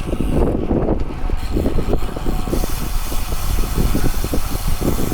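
Wind buffeting the microphone over a steady low road rumble, the sound of moving along at speed.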